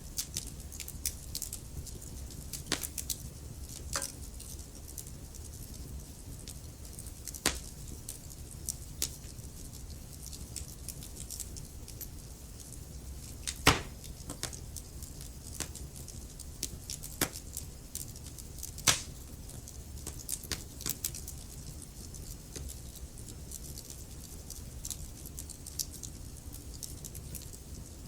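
Wood fire crackling: irregular sharp pops and snaps over a low steady rumble, with two louder pops, one about halfway through and one a little past two-thirds of the way.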